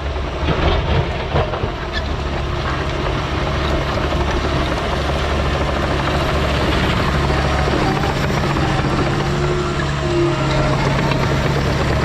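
Heavy diesel equipment engine running steadily, a deep even drone, with a few knocks in the first couple of seconds.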